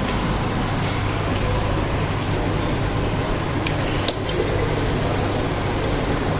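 Steady rumbling noise of a moving vehicle, with a short click about four seconds in.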